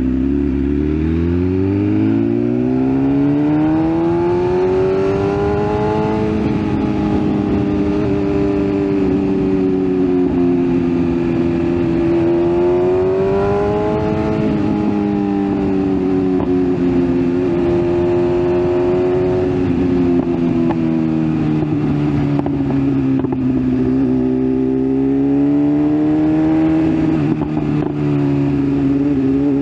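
BMW S1000RR's inline-four engine under way, pulling hard through the first few seconds with its pitch climbing, then holding a high, fairly steady cruise with small rises and falls of throttle, over a steady rushing noise.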